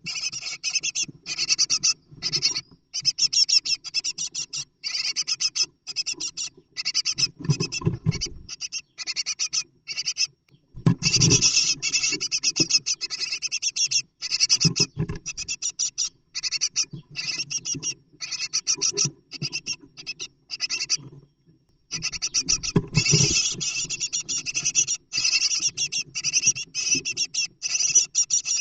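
Great tits inside a nest box: rapid, high-pitched scratching and rustling in quick runs of pulses with short breaks, and a few louder, deeper bursts of movement against the box.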